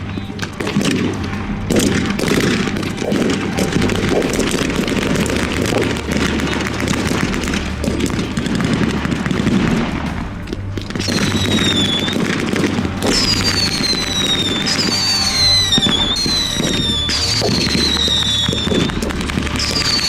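Dense crackle of blank gunfire and pyrotechnic bangs over background music. From about halfway, a series of high whistles, each falling in pitch over a second or so, repeats five times.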